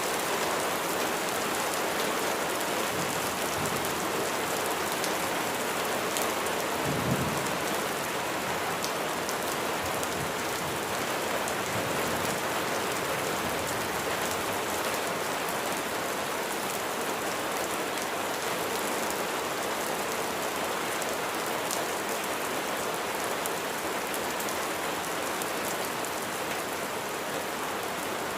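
Steady heavy rain falling on surfaces, with individual drops ticking through it. A short, low rumble of thunder comes about a quarter of the way in.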